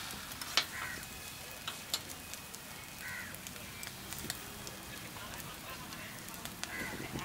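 Egg muffins sizzling on a hot metal griddle plate, with a few sharp clicks of a metal knife tapping and scraping the plate as the muffins are pressed and turned.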